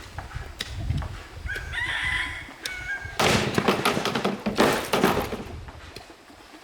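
A rooster crows once, a pitched call of about a second and a half starting about a second and a half in. Scattered sharp knocks run throughout, and two louder bursts of rustling noise follow near the middle.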